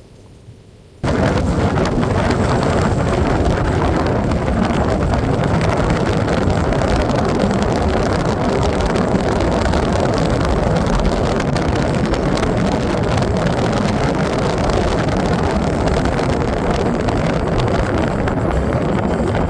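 Heavy rain pouring down in a steady downpour, cutting in abruptly about a second in.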